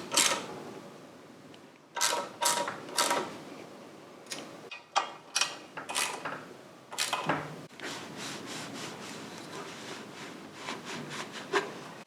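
Hand work on motorcycle fork parts: a series of irregular sharp clicks and knocks, with rubbing and handling noise between them.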